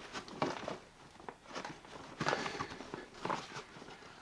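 Footsteps with a few light knocks and scrapes, scattered irregularly, as a long tongue-and-groove pine board is handled and moved into place.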